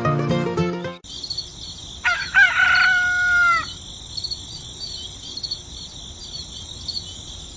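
Music cuts off about a second in, followed by a rooster crowing once for about a second and a half over a steady high-pitched chirping background.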